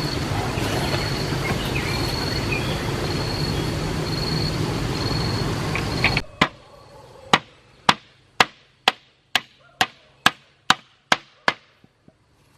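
A steady noise cuts off abruptly about six seconds in. Then a hammer strikes wood in a run of about a dozen sharp blows, roughly two a second, that fade out near the end.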